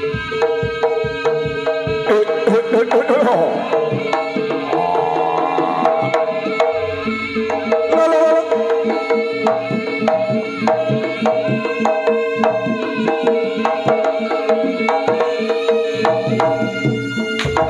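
Live jaranan ensemble music: hand drums (kendang) playing a quick, even rhythm over steady held tones, with a wavering melodic line in the first half.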